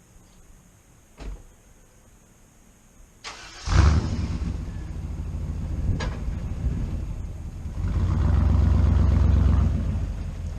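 Dodge Avenger cold-started after sitting about six months: a click about a second in, then a brief crank and the engine catches near four seconds in with a loud flare. It then runs at a fast idle, getting louder for a couple of seconds near the end.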